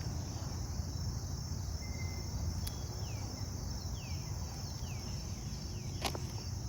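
Insects chirring steadily in a high, unbroken drone, with a few short falling chirps about three to four seconds in and a sharp click near the end, over a low outdoor rumble.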